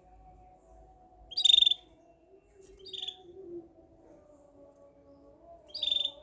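A samure bird giving three short, sharp chirps, about a second and a half apart. A faint, low, wavering hum runs underneath.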